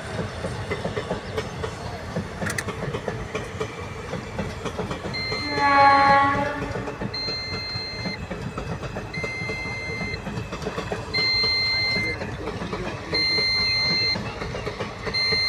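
A long train running past with a steady rumble and wheel clatter; about five seconds in, its horn sounds once for under two seconds, the loudest moment. From about seven seconds a high electronic beep repeats, roughly one second on and one second off.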